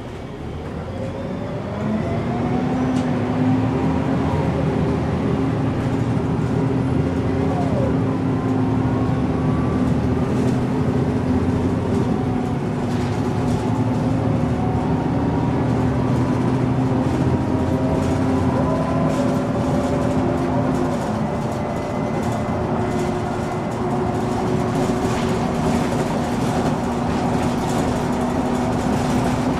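A MAN NG 313 articulated city bus driving. The engine drone grows louder over the first two seconds, then holds steady, with whining tones that climb in pitch several times as the bus gathers speed.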